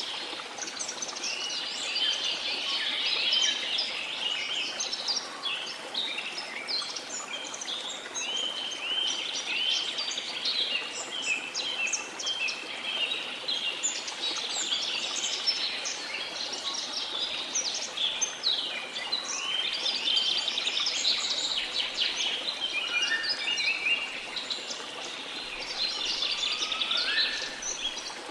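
A chorus of many small birds chirping and singing continuously, over a steady wash of sea.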